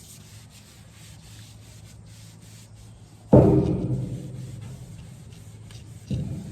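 Soft, steady rubbing of a rag working oil into a wooden pick handle. A little past three seconds a loud thump rings briefly as it fades, and a smaller knock comes near the end.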